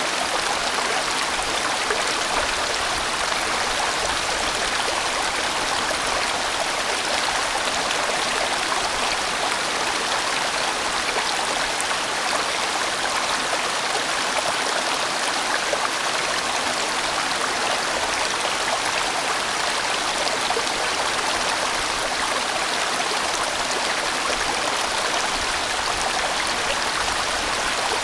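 A large mountain stream rushing steadily over rocks, a full, even water noise that stays the same throughout.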